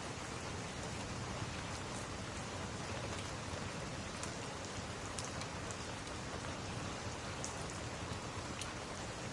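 Steady rain, an even hiss, with scattered sharp ticks.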